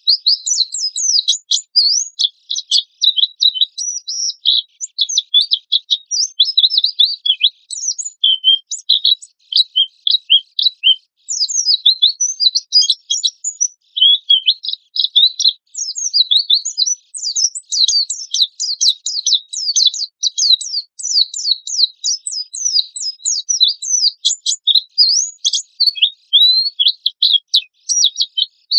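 White-eye (pleci) singing fast and continuous: a dense run of high, rapid chirps and trills in the harsh rapid-fire style, with a couple of brief pauses.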